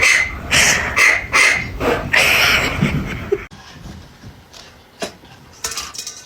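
A dog barking repeatedly, about two to three barks a second, which stops abruptly about halfway through. A few faint clicks follow.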